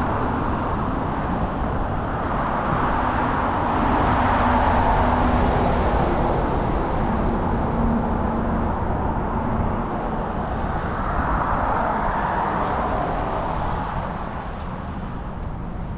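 City road traffic driving past: two vehicles swell up and fade, about five seconds in and again about twelve seconds in, over a continuous rumble of traffic and wind on the microphone.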